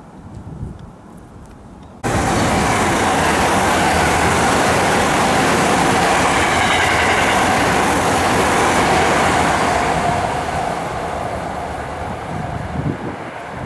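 Electric commuter train passing close at speed: loud wheel-on-rail rolling and running noise. It begins abruptly about two seconds in, after a quieter stretch, and fades off over the last few seconds.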